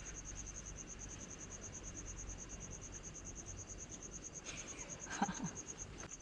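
Crickets chirping steadily in a fast, evenly pulsed high trill. About five seconds in, a brief louder sound cuts across it.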